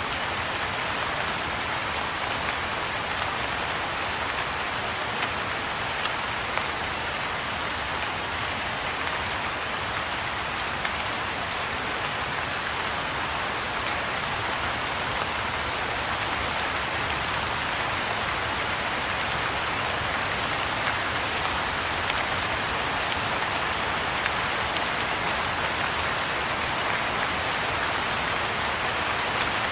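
Soft rain falling steadily on the surface of a pond, an even hiss of drops with a few sharper individual drop ticks.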